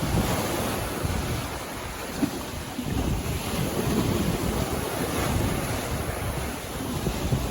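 Sea waves breaking and washing on a beach, a continuous surf noise, with wind buffeting the microphone.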